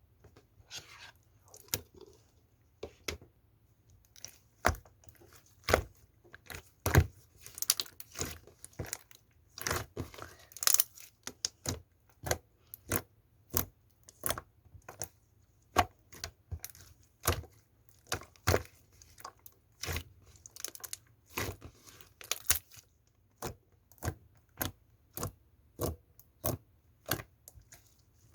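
Kiwi slime being squeezed and poked by hand, making a string of sharp pops and crackles, roughly one or two a second, with some denser crackly stretches.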